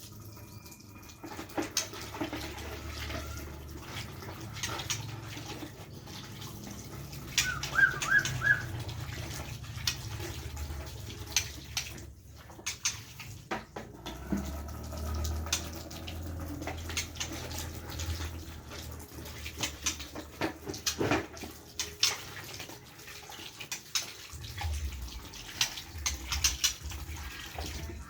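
Water running and splashing with many scattered knocks and clatters, as in cleaning bird cages. About eight seconds in, a few short high chirps.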